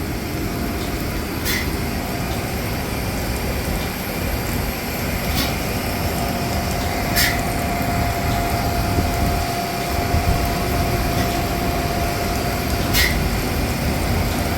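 Steady low machinery rumble. A thin steady tone enters about halfway through, and there are a few short clicks.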